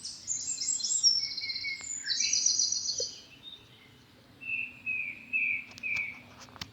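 Small birds singing: rapid high-pitched trills for about the first three seconds, then four short, lower whistled notes in a row about four to six seconds in.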